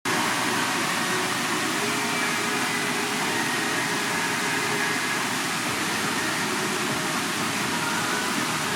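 Waterfall rushing in a steady, even roar of water noise.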